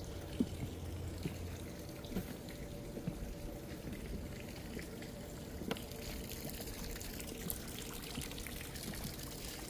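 Water trickling and pouring steadily into a small pond, with a few faint scattered clicks.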